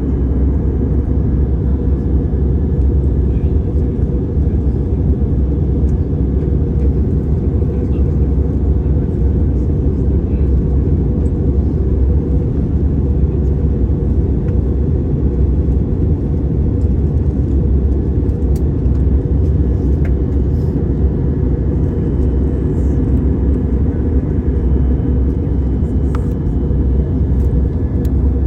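Steady low roar of a jet airliner's engines and airflow during its approach to land, with no rise or fall in level.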